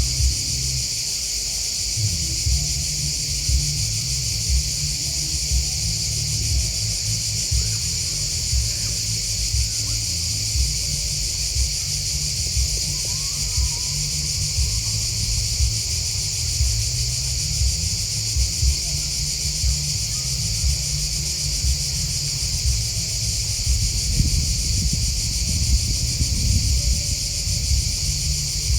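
Continuous high-pitched chorus of chirping insects, grasshoppers and crickets, holding steady without a break. A low rumble with small irregular bumps runs underneath.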